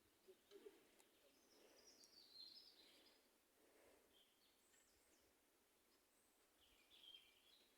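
Near silence with faint birdsong: a few short high chirps and trills, the longest a couple of seconds in and another near the end.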